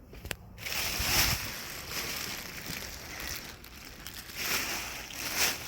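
A large, dry Bird of Paradise leaf rustling and crackling as it is handled, in uneven swells that start about half a second in.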